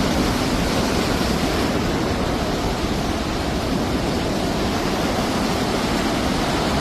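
Rushing water: a steady, loud, unbroken rush with no distinct events.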